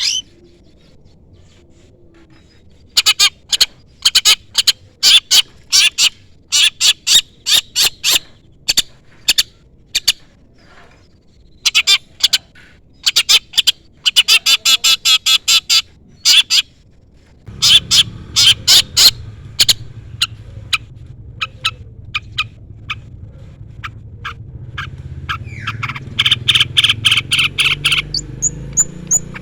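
Long-tailed shrike (cendet) calling in runs of short, sharp, rapidly repeated notes, starting a few seconds in, with a fast chattering run near the end. A steady low rumble joins in the background about halfway through.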